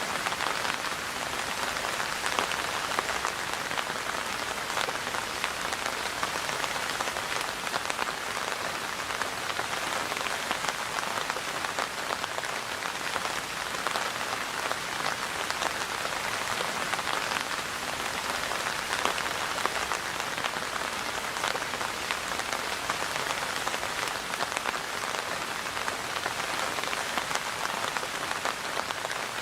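Steady rain falling on a hard surface: an even hiss flecked with many small drop taps.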